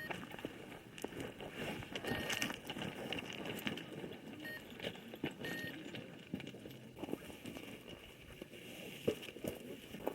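Irregular crackling and rustling with scattered small clicks, and a few short high beeps.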